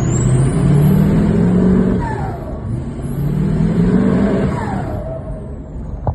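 Ford 6.0 Powerstroke V8 turbodiesel revved twice, each rev climbing and then dropping away. The variable-geometry turbo whistles high throughout, with a falling whoosh as each rev comes off. A short click comes near the end.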